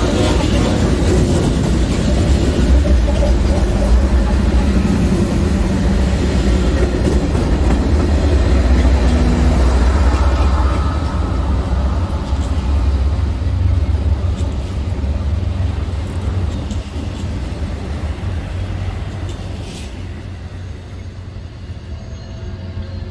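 BNSF freight train passing close by: the diesel locomotives' heavy low rumble with steel wheels clattering on the rails, then double-stack container cars rolling past. The sound fades gradually over the second half as the train moves away.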